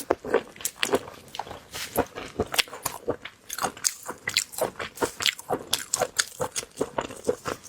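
Close-miked chewing of crisp, crunchy food: a quick run of sharp crunches, several a second.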